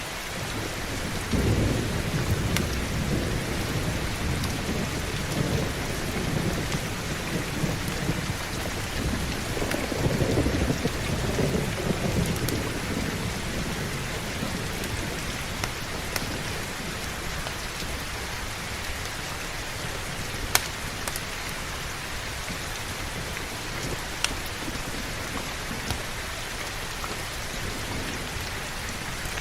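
Heavy steady rain with rolling thunder that rumbles through the first half, swelling about a second and a half in and again around ten seconds, then fading out. Two sharp clicks stand out in the second half.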